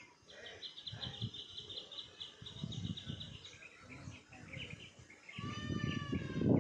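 A small bird chirping in a fast, even trill for about three seconds, then a slower run of lower chirps, over gusty low rumbling outdoor noise; near the end a falling call with several tones.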